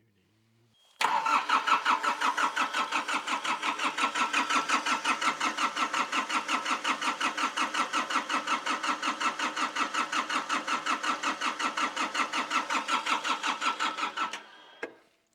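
Hitachi EX55UR excavator's diesel engine being cranked by its starter for about thirteen seconds in rapid, even pulses, starting suddenly about a second in and cutting off near the end without the engine catching.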